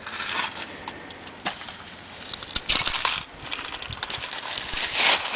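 Footsteps crunching through broken glass and trash in a creek bed: a few irregular crunches with small glassy clinks between them.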